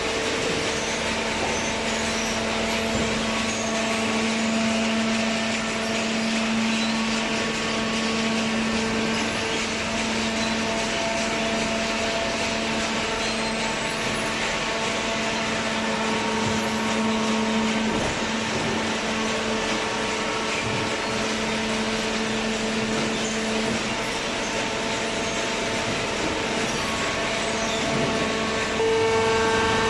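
Hydraulic cardboard baler's electric motor and hydraulic pump running with a steady hum. Just before the end it gets louder and the pitch changes.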